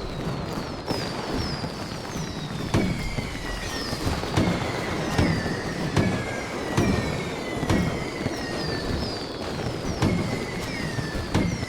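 Fireworks going off: a run of sharp bangs about once a second over a low rumble, with whistling tones gliding downward.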